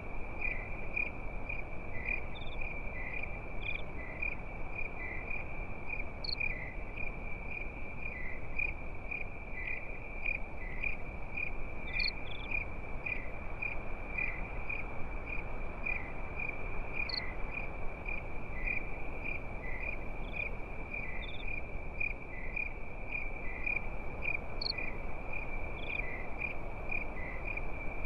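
Crickets chirping steadily in a fast, even pulse, with a few higher single chirps now and then, over a steady low hiss.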